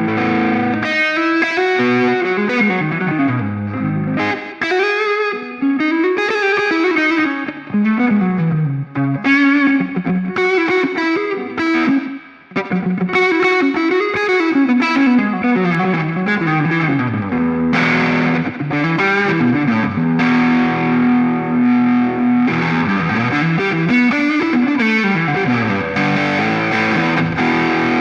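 Electric guitar played through a Ring Red Swan distortion pedal: a distorted lead line of runs that rise and fall, with a brief dip about twelve seconds in and long held notes later on.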